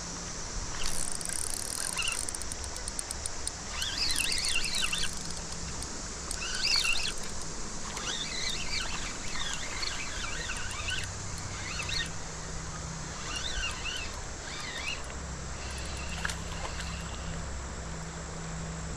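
Outdoor ambience: birds chirping in short bursts every few seconds over a steady hiss, with a faint low hum underneath.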